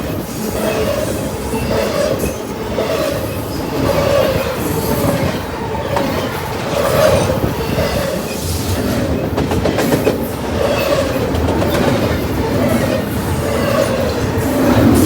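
Freight train cars rolling past, a loud steady rumble with repeated clacking of wheels over the rails about once a second.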